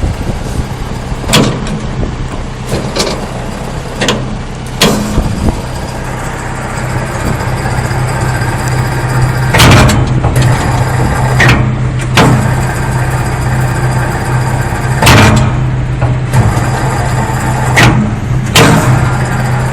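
Tractor PTO-driven WC-8M wood chipper running steadily, with sharp cracks at irregular intervals as wood is bitten and chipped.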